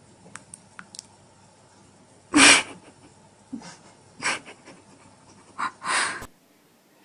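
Four short, loud, breathy hisses from an animal, after a few faint clicks; the sound cuts off abruptly near the end.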